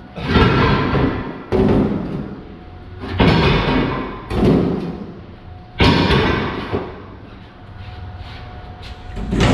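Heavy metal scrap being thrown or dropped down, piece after piece: about six loud, irregularly spaced clanks and thuds, each ringing out briefly.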